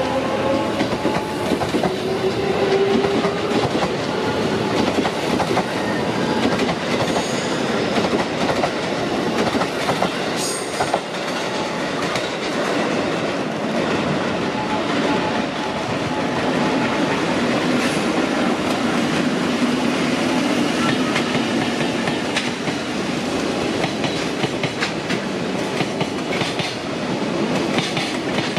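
JR Freight EF65 electric locomotive and a long string of Koki container flat wagons rolling past, their wheels clacking steadily over rail joints and points.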